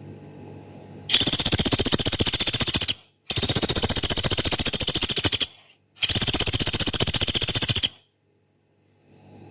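Pelatuk beras, a small pygmy woodpecker, giving three long, harsh, rapid rattling trills, each about two seconds long with short gaps between. This is the long harsh 'nembak' call used for song training.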